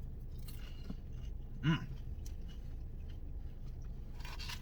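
A person chewing and crunching on breaded fried pickle fries, with a brief voiced murmur about a second and a half in, over a steady low hum.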